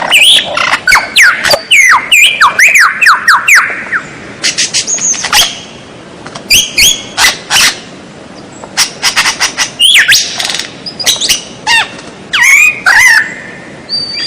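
A songbird singing a varied, rapid song of sweeping whistled notes and sharp clicks in short phrases. A dense run of rising and falling whistles comes in the first four seconds, clipped clicking notes follow, and a quieter pause comes near the middle before more sweeping notes.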